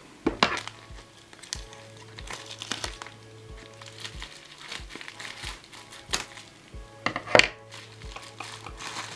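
Packaging crinkling with sharp crackles as it is unwrapped by hand, loudest about seven seconds in, over background music with a steady low beat.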